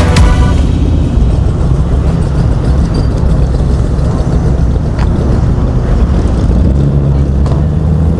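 Car engine running with a steady, deep low rumble.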